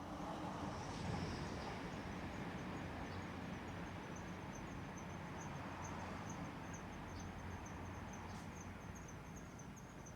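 Insect chirping outdoors: an even run of short, high chirps that grows clearer a few seconds in, over a steady low background rumble.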